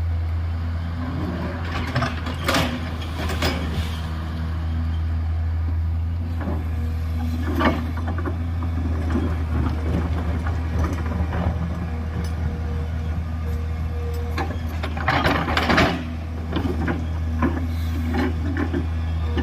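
Excavator's diesel engine running steadily under load, with bursts of scraping and knocking from the bucket cutting into earth and rock, the loudest burst about fifteen seconds in.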